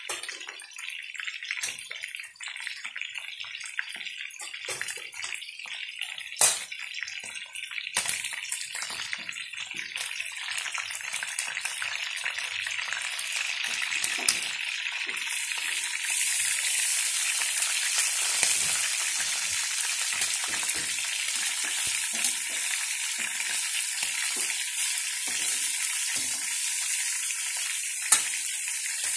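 Chicken pieces and small potatoes sizzling and bubbling in oil and sauce in a pan, with scattered sharp pops. The sizzle builds steadily and turns to a stronger, higher hiss about halfway.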